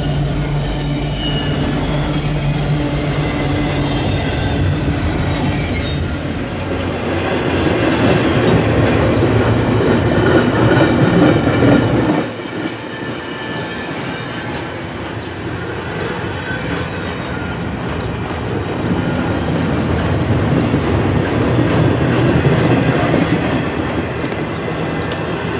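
Two EMD diesel freight locomotives, an SD70ACe leading an SD60M, approach with a steady low engine drone that builds as they pass. About twelve seconds in, the sound drops suddenly to the rolling rumble and clatter of empty double-stack well cars, steel wheels running on the rail.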